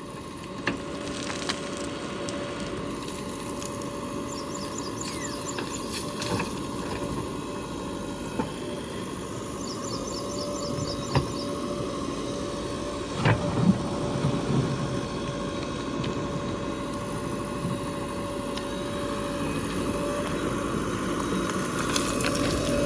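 Heavy machinery engine running steadily at a constant pitch, with a few sharp knocks and clunks in the middle.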